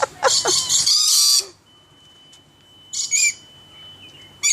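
A bird's harsh, loud screech lasting about a second near the start, then a short chirping call about three seconds in.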